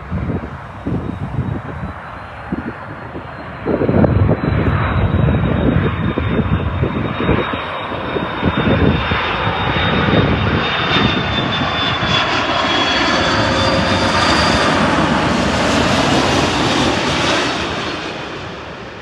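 Jet airliner passing low overhead: a high engine whine sliding slightly down in pitch over a rushing engine noise that builds to a peak and then fades away near the end. Wind buffets the microphone in the first few seconds.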